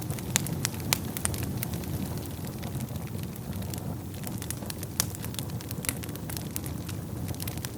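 Wood fire burning in a fireplace: a steady low rumble of flames with frequent sharp crackles and pops from the burning wood, a few louder pops standing out.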